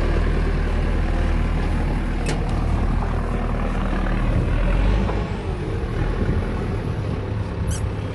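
A large engine running steadily with a low hum, which settles lower and a little quieter about five seconds in.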